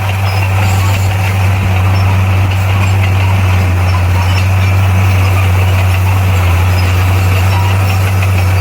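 Bulldozer's diesel engine running steadily, a loud, even low hum that stays unchanged throughout.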